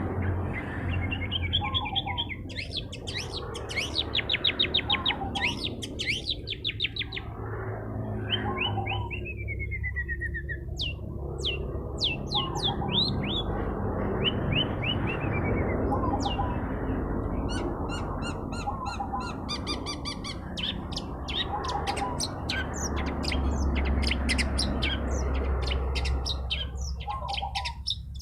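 Long-tailed shrike (cendet) singing hard: a varied run of rapid trills, chattering notes and falling whistles, with short gaps between phrases.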